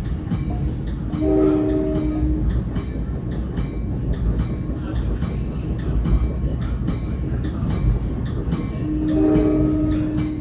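Commuter train running, heard from on board: a steady rumble with wheels clicking over rail joints. The horn sounds a short blast about a second in, then a longer blast starting near the end.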